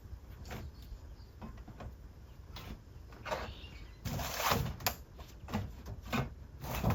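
Irregular knocks and clatter, with a short noisy rasp about four seconds in and a few sharper knocks after it.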